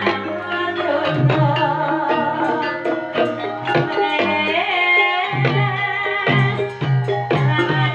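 Live Javanese ebeg (kuda kepang) dance music: a percussion ensemble with steady drum strokes under held, ringing pitched tones and a sung melody.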